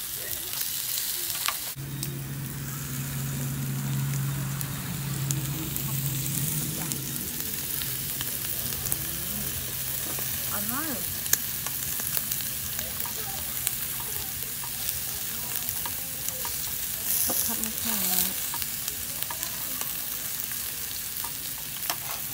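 Food frying and sizzling in a pan, with the crackle running steadily throughout and some stirring. A low steady hum runs underneath through the first half or more.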